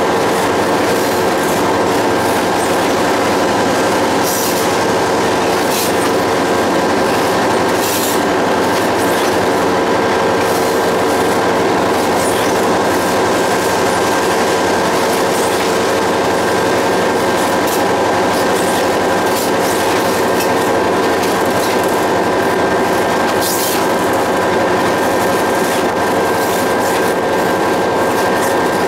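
A train running along the track, heard from on board: a steady, loud running noise with a constant hum and a few sharp clicks.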